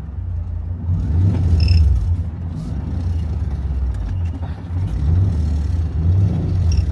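Truck engine and drivetrain heard from inside the cab as it drives, a steady low rumble that grows louder about a second in.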